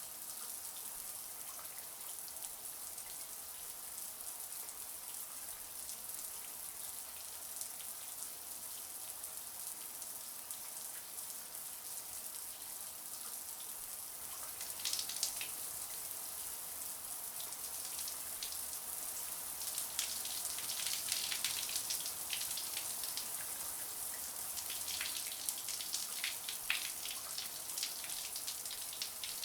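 Shower water running steadily, a high hiss of spray, with brief louder spatters of water hitting a surface from about halfway on.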